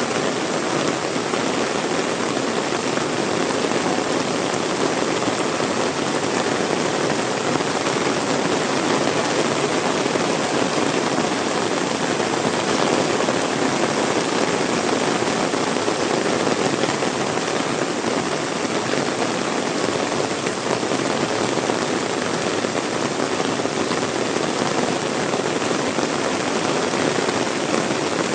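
Heavy rain pouring down and splashing on wet surfaces, a steady, even hiss with no let-up.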